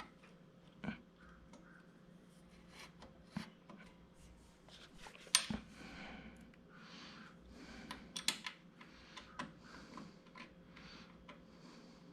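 Light clicks, taps and rubbing of lightweight metal stand parts being handled and fitted together during assembly. There is a sharper knock about five seconds in and a quick run of clicks around eight seconds.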